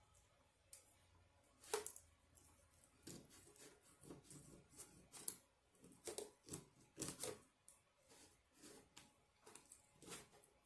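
Faint, irregular clicks and crinkles of food and takeout packaging being handled, with one sharper click about two seconds in.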